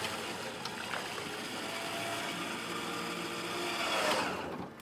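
A small electric motor whines steadily, rising a little in pitch near the end, then stops abruptly.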